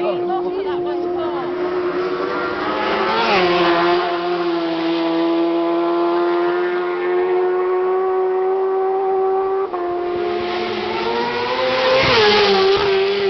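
Racing superbikes on a road course, their engines running at high revs with a steady high pitch. A bike sweeps past about three seconds in and another about twelve seconds in, the pitch dropping as each goes by.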